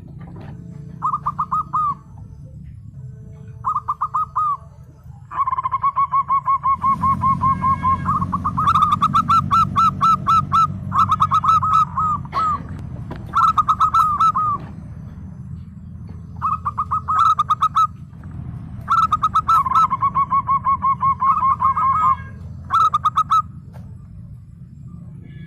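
Zebra dove (perkutut) calling over and over: short phrases of rapid, quavering coo notes, one after another with brief pauses, over a steady low hum.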